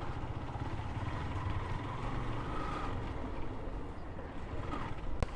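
Motorcycle engine running steadily at low riding speed, a low rumble. There is one sharp click about five seconds in.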